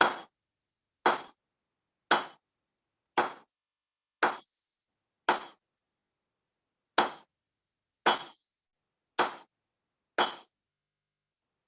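Hand hammer blows on leaf-spring steel at the anvil, about one a second: ten strikes with a short pause after the sixth, a few leaving a brief high ring.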